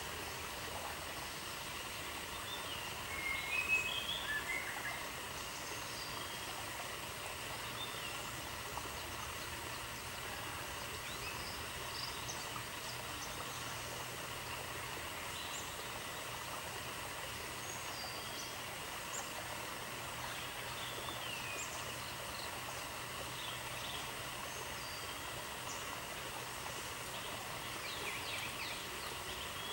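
Steady outdoor ambience: a constant hiss with scattered faint bird chirps, the loudest a short cluster of calls about three to four seconds in.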